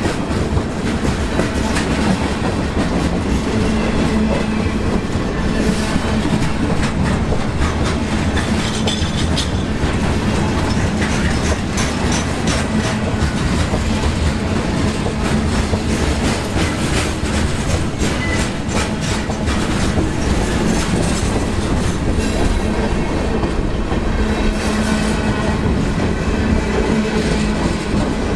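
A CSX freight train's cars rolling past close by: steady noise of steel wheels on rail, with repeated clickety-clack as the wheels cross the rail joints.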